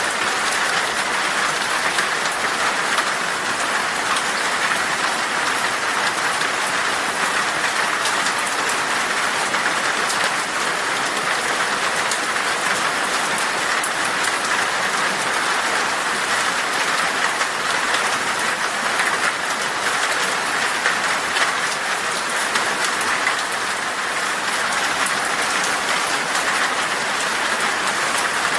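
Heavy rain falling on glass: a dense, steady hiss of drops with fine ticks of individual drops on top.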